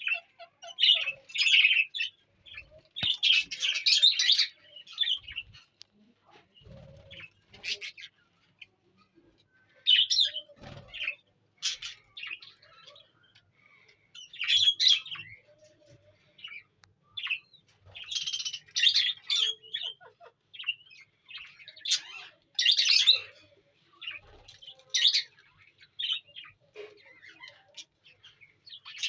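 A flock of budgerigars chirping and chattering in irregular bursts of short, high chirps, with brief quieter gaps between the bursts.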